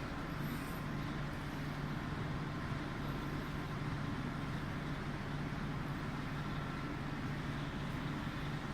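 Tunnel car wash machinery running with a steady, even mechanical hum.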